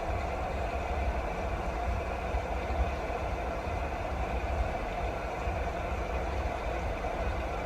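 Steady rain falling, an even hiss over a deep low rumble, with no separate drops or gusts standing out.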